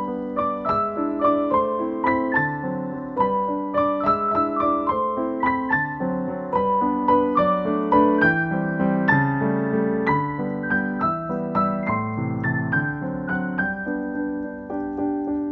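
Background music: solo piano playing a steady run of notes.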